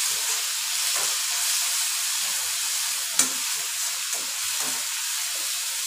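Onion, tomato and garlic sizzling in oil in an iron kadai while a metal spatula stirs and scrapes against the pan, with one sharper clink about three seconds in.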